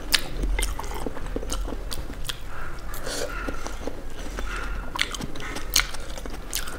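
Close-miked chewing of a mouthful of instant noodles, with sharp clicks of a metal fork against a glass bowl as the noodles are stirred and twirled.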